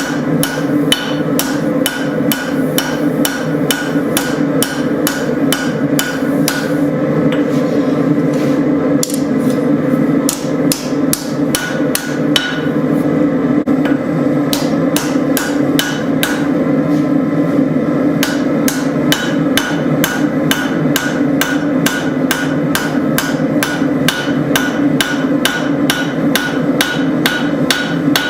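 Hammer striking hot spring steel on an anvil in a steady run of blows, about three a second, with a couple of brief slower patches, over a continuous low drone.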